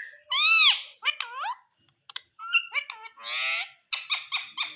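Indian ringneck parakeet calling and chattering: a loud arched screech about half a second in, wavering squawks, then after a short pause a harsher call and a quick run of clicks, about eight a second, near the end.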